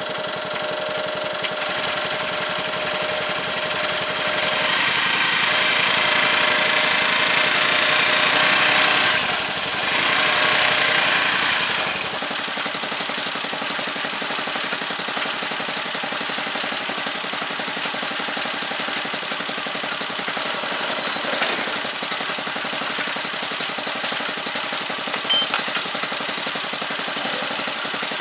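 Small engine of a motor cargo tricycle running. It runs louder for several seconds, dips briefly, then settles back to a steady idle about twelve seconds in.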